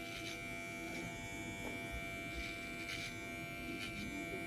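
TPOB GO electric hair clippers running with a steady buzz, with faint brushing strokes at irregular intervals as they cut hair.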